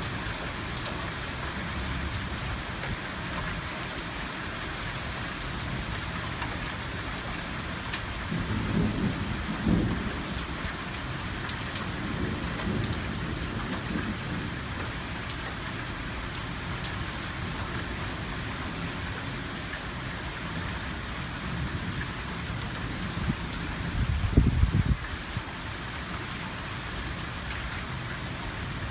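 Heavy rain falling steadily in a severe thunderstorm. Thunder rumbles low about eight seconds in, and a louder, shorter rumble comes near the end.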